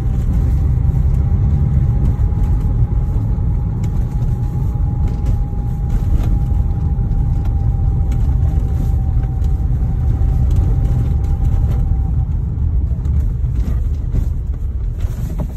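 A steady single-pitch whistle inside the cabin of a Kia Sorento XM at just over 40 km/h, over the low rumble of road and engine noise. It fades out about twelve seconds in. The driver cannot locate it and senses it somewhere at the rear, behind the passenger seat.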